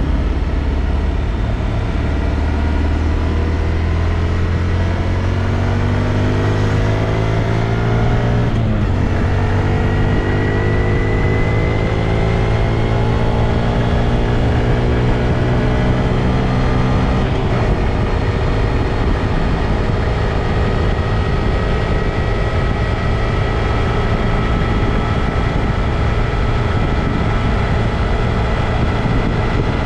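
Honda Grom's small single-cylinder four-stroke engine pulling up through the revs, with a gear change about nine seconds in and a second climb. After about seventeen seconds the engine note fades into a steady rush of noise.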